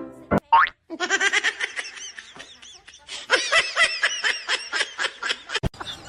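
High-pitched laughter: a long, rapid string of short giggles, several a second, with a brief break in the middle.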